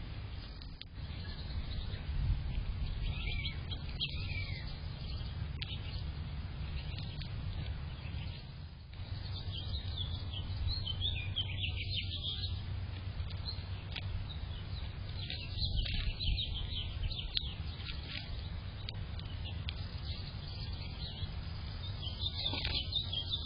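Small songbirds chirping and twittering in short high bursts, four times, over a steady low rumble.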